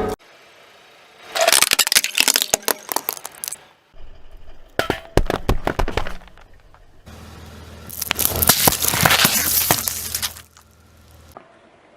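Brittle objects cracking and crunching as they are crushed under a car tyre, in three bouts of rapid sharp cracks. A low steady hum runs under the last bout.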